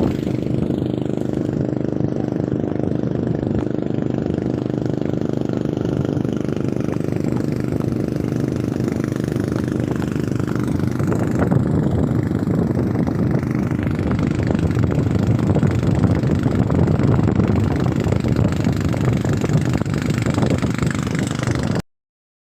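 Engine of the watercraft towing a banana boat, running steadily at speed over wind and water noise. It grows a little louder about halfway through, then cuts off suddenly near the end.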